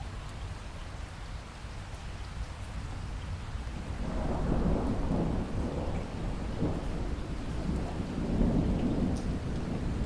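Steady rain falling, with a rolling rumble of thunder that builds about four seconds in and carries on.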